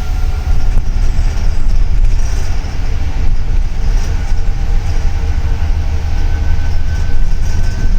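Double-decker city bus under way, heard from inside: a heavy, steady low rumble of engine and road with a faint, even whine over it.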